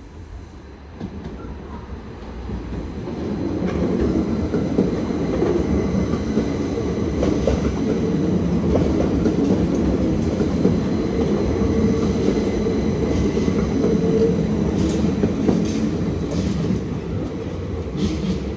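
Electric Uetliberg line train running on the rails, growing louder over the first four seconds and then holding steady. A few short high-pitched clicks or squeaks come from the wheels and rails near the end.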